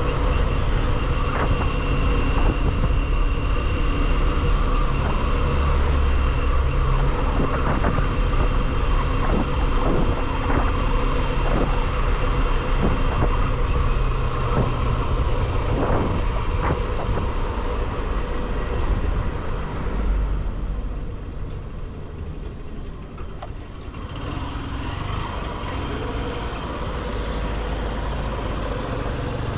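Motorcycle running at road speed, its engine drone mixed with wind rush and road traffic. The sound drops off for a few seconds about two-thirds of the way through, as if the bike eases off, then builds again.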